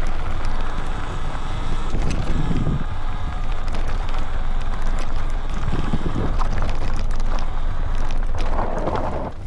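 Wind buffeting a handlebar-mounted microphone on a moving electric dirt bike, with scattered knocks and rattles from riding over rough ground.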